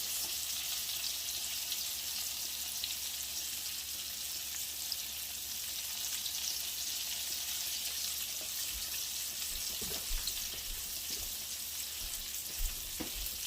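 Fresh garlic frying in olive oil in a pan: a steady sizzling hiss with a few faint ticks.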